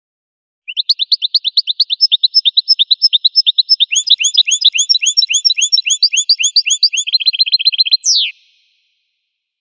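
Finch song: a long trill of quickly repeated rising whistled notes, about five a second, joined by a higher second row of notes in the middle and speeding up near the end, closing with one falling note and stopping abruptly.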